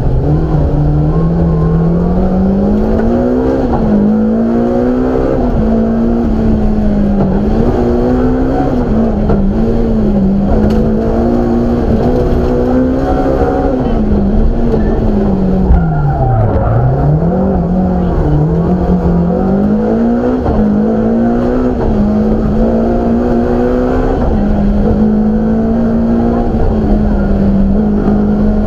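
BMW M3 rally car engine heard from inside the cabin at stage pace, its revs climbing and falling with gear changes and throttle. It drops sharply about sixteen seconds in, as for a slow corner, then holds a steadier note near the end.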